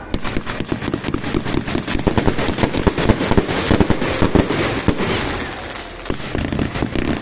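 Dense barrage of fireworks going off: rapid bangs and crackles, several a second, thinning briefly near the end before picking up again.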